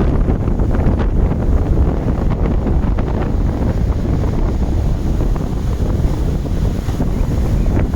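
Strong wind buffeting the microphone over the continuous roar of storm-driven ocean waves, with a heavy, steady low rumble.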